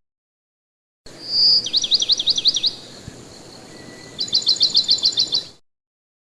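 A songbird singing: a high whistle, then a run of about six quick down-slurred notes, and after a pause a faster trill of about ten notes, over a steady background hiss. It starts about a second in and cuts off abruptly near the end.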